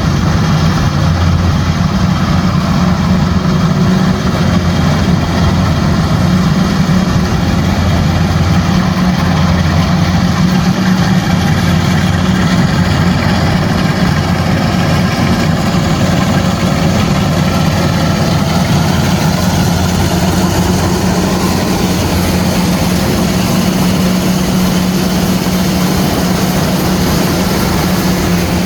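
Kubota rice combine harvester's diesel engine and threshing machinery running at a steady, loud drone.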